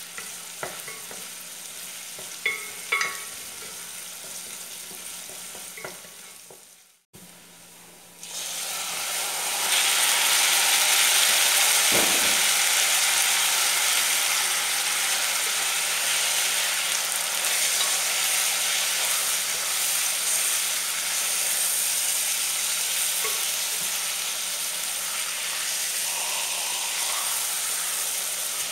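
Chopped onion frying gently in a pot while a wooden spoon stirs and clicks against it; then, after a cut, chicken pieces searing in hot oil with a loud, steady sizzle that eases slightly toward the end, with a single knock about twelve seconds in.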